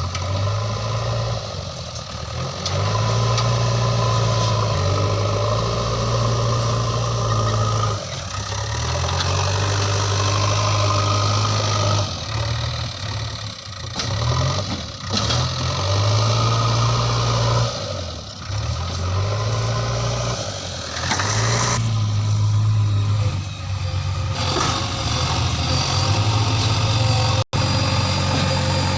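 Diesel engine of a JCB 3DX backhoe loader running under changing load as it digs and loads mud, its note stepping up and dropping back every few seconds with the hydraulic work cycles. The sound cuts out for an instant near the end.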